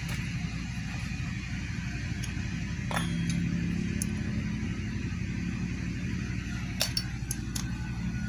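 Scattered light metallic clinks of hand tools and parts being handled during a motorcycle engine teardown, over a steady low hum.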